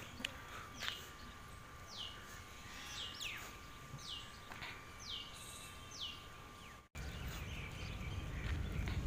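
A bird calling over and over, each call a short chirp sliding down in pitch, about one a second, against outdoor background noise with a faint steady whine. About seven seconds in, the sound drops out for a moment, then a low rumble builds.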